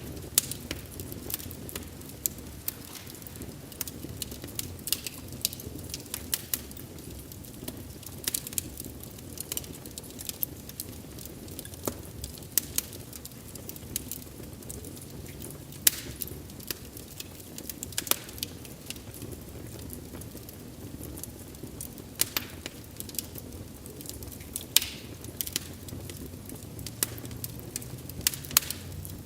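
Wood fire burning steadily with a low rumble, crackling and popping at irregular intervals, with a few sharp louder pops.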